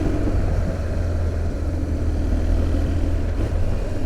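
2005 BMW R1200GS boxer-twin engine running steadily on the move, pulling cleanly with no misfire or hesitation, its earlier miss cured by new ignition coils.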